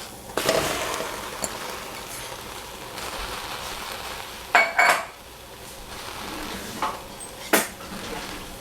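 Vegetables sizzling in hot oil in a frying pan, the sizzle starting about half a second in and slowly easing, with a metal spatula clanking against the pan three times while stirring.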